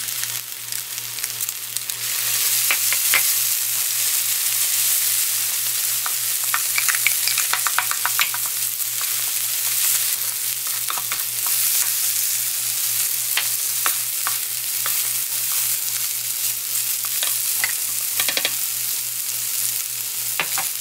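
Rice, kimchi and chopped duck bulgogi sizzling on a hot electric griddle as it is stir-fried into fried rice. Scissors, tongs and wooden spatulas click, tap and scrape against the griddle plate, with a quick run of taps partway through.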